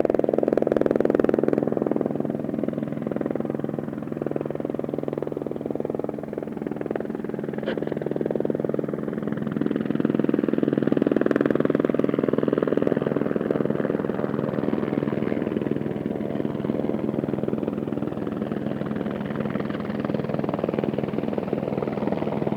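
Airbus AS350B3 helicopter running, its three-blade main rotor chopping steadily over the whine of its single turboshaft engine. It eases off slightly about five seconds in and grows louder again around eleven seconds.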